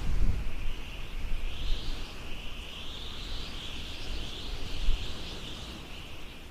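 Outdoor nature ambience: a steady high insect drone that slowly swells and fades, over low gusts of wind rumbling on the microphone.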